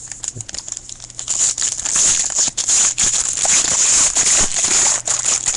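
Baseball card pack wrapper being torn open and crinkled by hand: a dense crackle of many small clicks that grows louder about one and a half seconds in.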